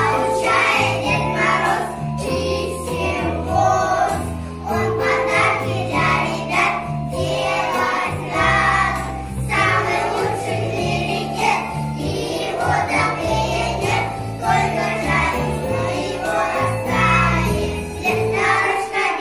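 A song sung by a choir over instrumental backing, with a bass line stepping from note to note.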